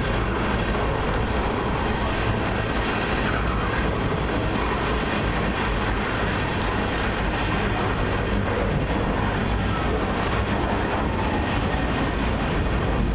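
Freight train's flatcars rolling past close by: a steady rumble of steel wheels on rail. Three brief, faint high squeaks come at intervals of about four to five seconds.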